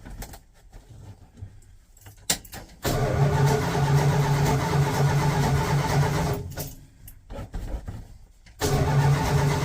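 1985 Dodge D150 pickup being cranked by its starter without catching. A click comes about two seconds in, then a long crank of about three and a half seconds, a pause, and a second crank starting near the end: a hard start, which the owner puts down to flooding.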